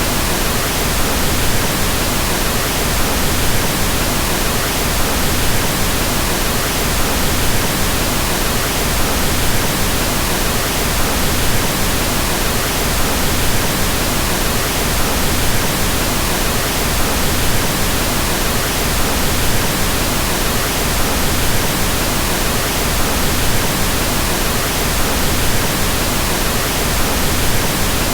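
Steady, unchanging pink noise: an even hiss across the whole range with a fuller low end, like a soft rush of rain or wind.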